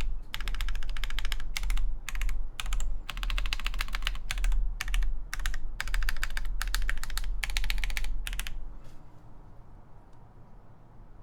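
Typing on a Han's 80 (NEO 802) mechanical keyboard with lubed Alpaca v2 linear switches, an FR4 plate and Hammerworks CRP keycaps: runs of quick keystrokes in bursts, stopping about eight and a half seconds in.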